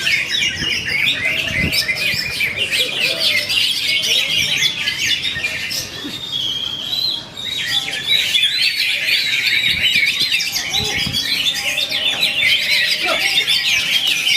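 Cucak hijau (green leafbird) singing a fast, continuous chattering song of rapid high notes, with a short lull about six to seven seconds in.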